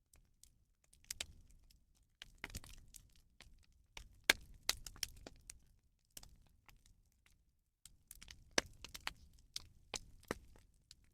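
A rubbish bonfire crackling and popping, with irregular sharp cracks coming in clusters and short lulls between them.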